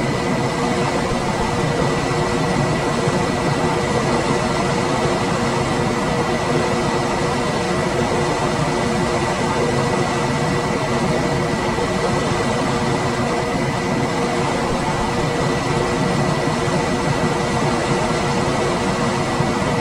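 Room air conditioner running steadily: an even rush of fan air with a faint high whine and a lower hum held constant under it.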